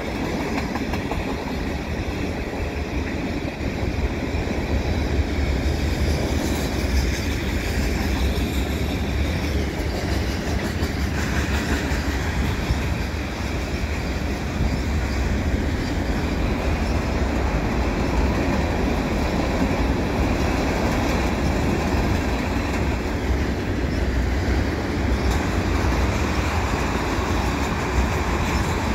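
Freight train's tank cars rolling steadily past: a continuous rumble of steel wheels on rail.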